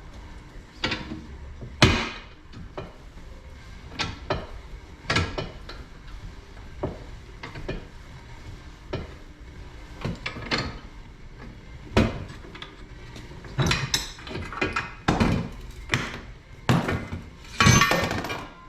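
Irregular sharp knocks and clanks of hand tools and metal bike parts being handled on a workbench, with a longer rattling clatter near the end.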